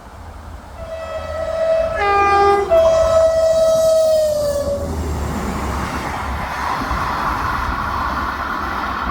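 Train's two-tone horn sounding high, low, then a long high note that sags slightly in pitch as it ends. The rumble of the passing train then builds up and continues.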